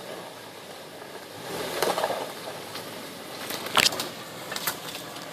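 Truck driving through mud, a rush of noise that swells about two seconds in, with a sharp knock near four seconds and a few smaller clicks.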